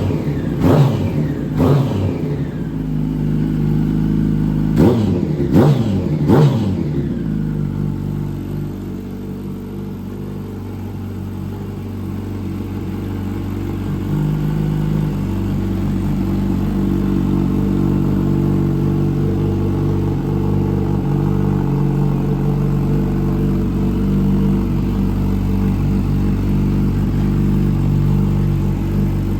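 Yamaha YZF-R1 inline-four engine idling through a TOCE-style aftermarket silencer. It is blipped sharply twice near the start and three more times about five to six seconds in, then settles into a steady idle.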